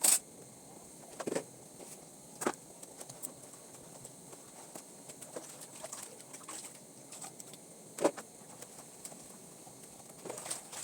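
A few scattered short knocks and clicks, the loudest right at the start and about eight seconds in, over low background noise.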